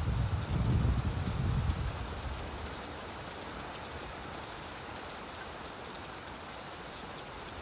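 Steady rain falling, with a low rumble that fades out over the first two seconds.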